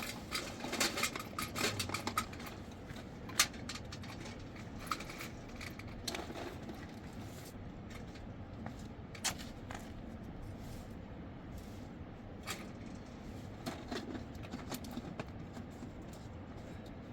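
Scattered light clicks and knocks of objects being handled over a faint steady hiss. There is a quick cluster in the first two seconds, then single knocks every few seconds.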